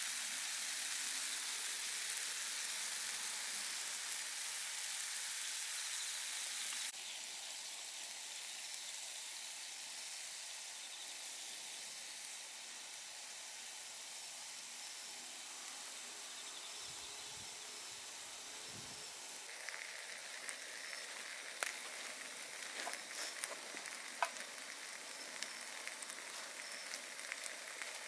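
Steak sizzling over an open wood campfire, a steady hiss that drops suddenly about seven seconds in. In the second half, sharp crackles and pops from the burning wood break over the sizzle.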